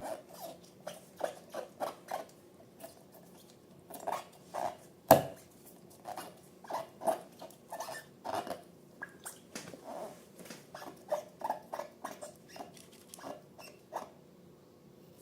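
Slime being squished and worked by hand: irregular wet, sticky clicks and little pops, with one sharper snap about five seconds in.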